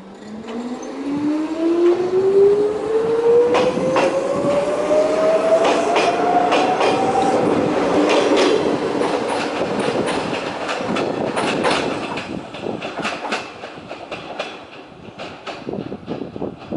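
Electric train accelerating: the motor whine rises steadily in pitch over about seven seconds while the wheels clack over rail joints. The sound fades in the last few seconds as the train moves off.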